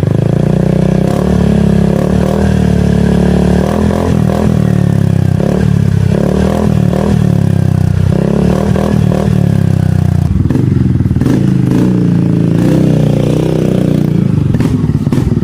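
Yamaha XMAX 300 scooter's single-cylinder four-stroke engine running through an aftermarket full-system exhaust, revved up and let fall back several times, then settling to a pulsing idle near the end.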